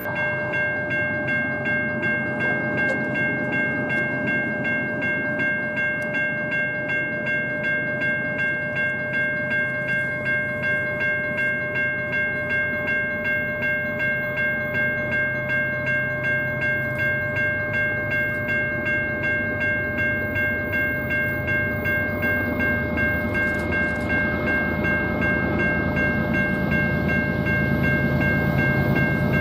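A BNSF train on the line, with steady high ringing tones pulsing about twice a second over the rumble of the train, which grows louder near the end.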